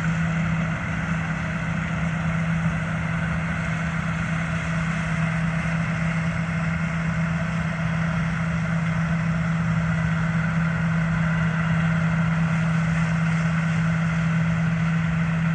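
Combine harvester running steadily at a constant pitch with a strong low hum, sounding normal after being restarted for a test run in soybeans.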